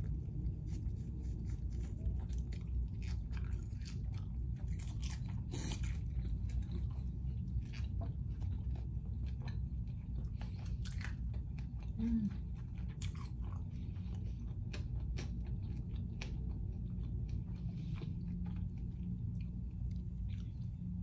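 A person biting and chewing lemon pepper and buffalo chicken wings close to the microphone, with many small sharp mouth clicks, over a steady low hum.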